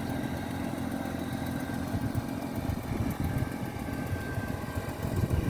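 Diesel engine of a concrete boom pump truck running steadily at a low, even rumble.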